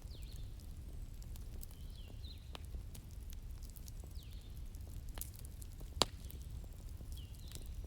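Wood fire crackling, with scattered sharp pops (the loudest about six seconds in) over a steady low rumble. Birds give a few short chirps in the background.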